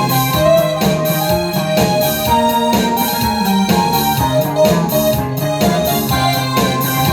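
Live band music led by keyboard chords with an electric piano sound, over a steady beat.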